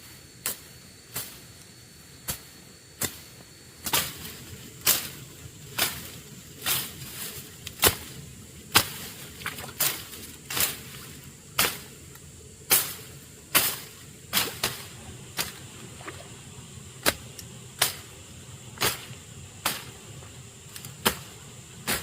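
A long series of sharp knocks or strikes, about one to two a second and uneven in loudness, like a hand tool hitting wood or stone.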